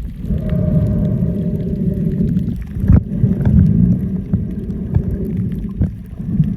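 Underwater sound through a snorkeller's camera: a low, steady rumble of water with the drone of a boat engine carried through the water, fading about two and a half seconds in and then returning weaker, with scattered sharp clicks.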